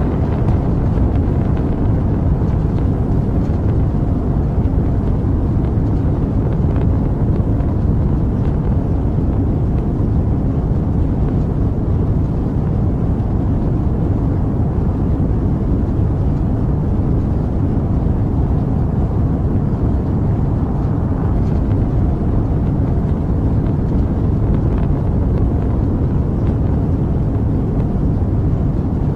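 Rocket engine noise: a steady, dense low rumble that holds an even level without breaks.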